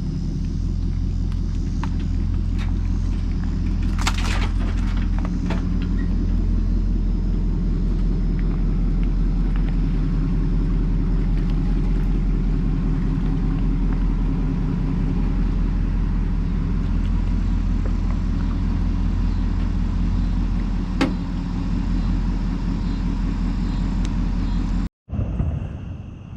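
A vehicle's engine running steadily with a low drone, a few light clicks over it; near the end it cuts off abruptly to a quieter background.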